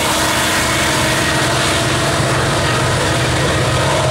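Loaded-looking BNSF coal train rolling past close by: the diesel locomotives (an EMD SD70ACe trailing a GE ES44AC) pulling away under power with a steady low engine hum, and the first coal cars' wheels rumbling over the rails. The sound is loud and unbroken, with no horn or bell.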